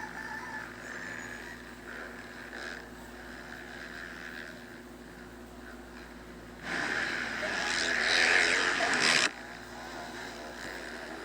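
Motocross dirt bikes running on the track, with a steady engine drone in the background. In the second half one bike comes through much louder for about two and a half seconds, its revs wavering, and then the sound cuts off abruptly.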